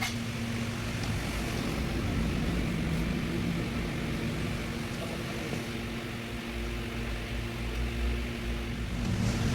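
A machine running steadily: an even mechanical drone with a low hum.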